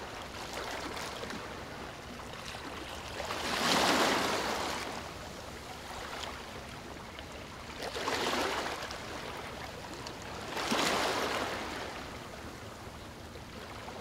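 Water rushing steadily, swelling louder three times for about a second each, around four, eight and eleven seconds in.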